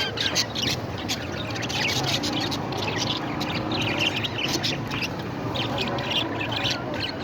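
Parrots chirping and squawking: many short, high calls in quick succession, overlapping one another.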